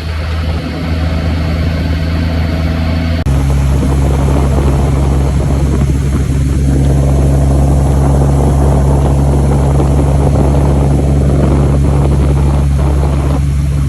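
A vehicle engine running steadily. The sound steps up in level and shifts in pitch abruptly about three seconds in, then cuts off suddenly at the end.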